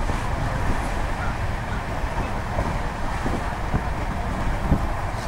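Sleeper-class passenger coach running along the track at speed: a steady rumble of wheels on rails, with a few sharper knocks about three to five seconds in.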